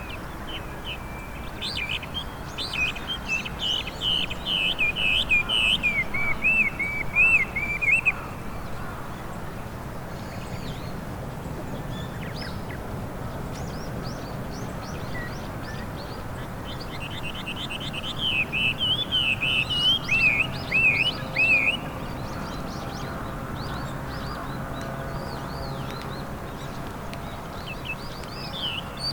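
Chinese hwamei (Garrulax canorus) singing two bouts of loud, varied song made of quick whistled notes that rise and fall. The first bout lasts about six seconds; the second starts a little past halfway and lasts about four seconds.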